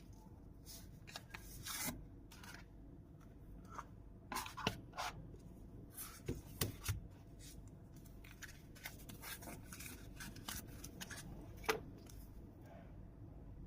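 Handling noise from a wristwatch being turned and moved in the hands: scattered rubbing and light clicks, busiest in the middle and with one sharper click near the end.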